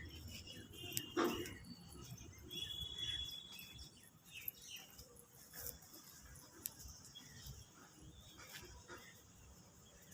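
Birds calling, with short high chirps and one louder call about a second in, then fainter scattered calls.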